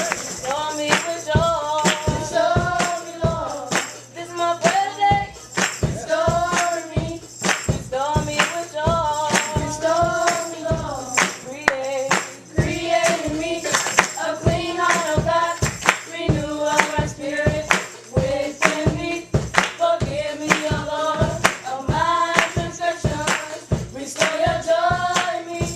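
Gospel hymn sung by voices over a steady percussion beat with a jingling, tambourine-like sound, in the Pentecostal style.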